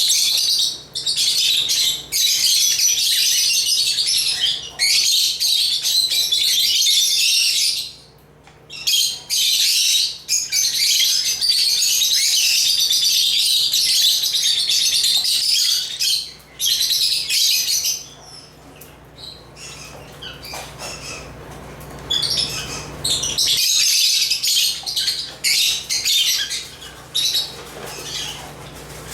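African lovebirds (Agapornis) chirping and twittering in long, dense, high-pitched runs, easing off for a few seconds about two-thirds of the way through before starting up again.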